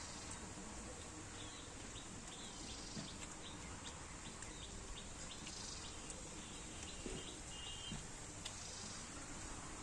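Steady outdoor background noise with a small bird chirping in quick runs of short high notes, mostly in the first half.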